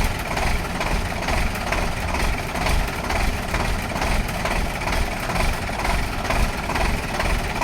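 Heavy truck engine idling with a steady, even chug.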